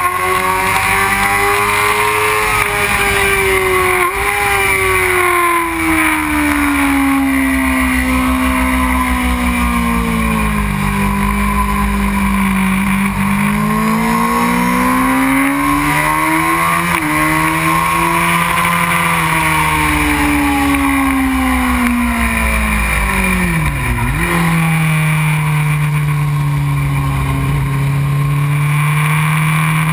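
Onboard sound of a 2001 Honda CBR600 F4i's 600 cc inline-four engine running hard on track. Its pitch falls and rises several times with the throttle, with a sharp brief dip about 24 seconds in, and then it holds a steady note.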